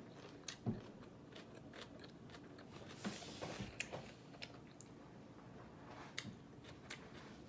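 Faint chewing of salad greens, with a few sharp clicks scattered through it and a short crunchy burst about three seconds in.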